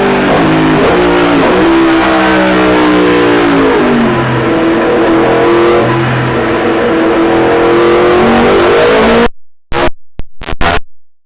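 A 2019 Yamaha MT-10's crossplane inline-four, breathing through an Akrapovic titanium can with the catalyst removed, running hard on a dyno after an ECU remap. The revs fall for about four seconds, then climb steadily in a pull until the sound cuts off suddenly a little after nine seconds in. A few short, sharp bursts of sound follow near the end.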